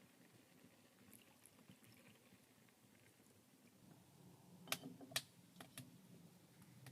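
Near silence with a few sharp, light clicks or taps, four of them in quick succession a little past the middle.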